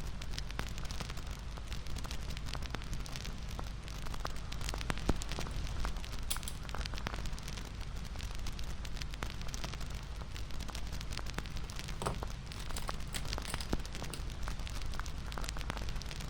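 Wood fire crackling: a steady hiss with many small sharp pops scattered throughout.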